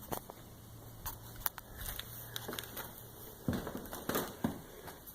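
Faint, scattered clicks and crunches of a person moving about and handling the camera, with a few soft knocks about three and a half to four and a half seconds in.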